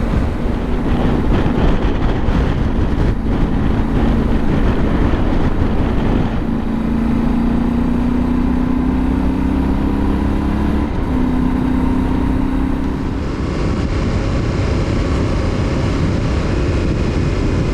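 Yamaha Ténéré 700's parallel-twin engine running at road speed, with wind rushing past. The engine note climbs slowly as the bike speeds up, changes about eleven seconds in, then holds steady.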